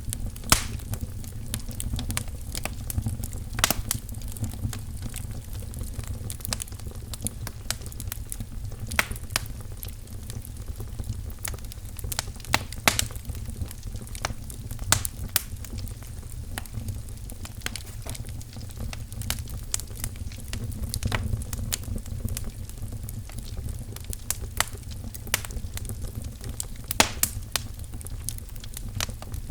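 Wood fire crackling in a fireplace: a steady low rumble of flames with irregular sharp pops and snaps of burning firewood.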